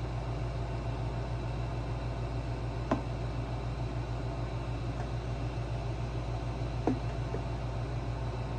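A steady low, evenly pulsing hum with a background hiss, and two light clicks of hand tools on generator parts, about three and seven seconds in.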